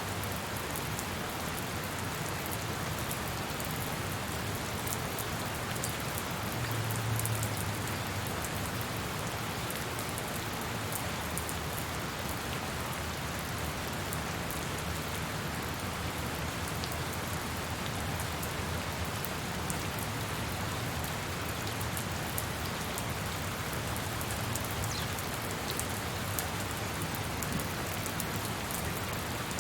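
Steady rain falling, an even hiss with many fine drop ticks. A short low rumble swells briefly about seven seconds in.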